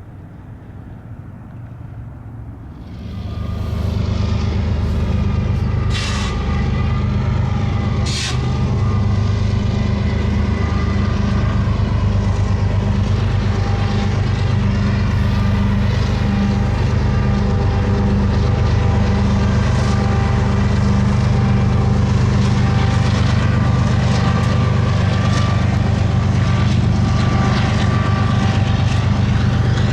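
Diesel freight locomotives running past on the track: a low engine drone with a steady hum that grows loud about three seconds in and then holds steady, with a couple of short sharp clicks a few seconds after it swells.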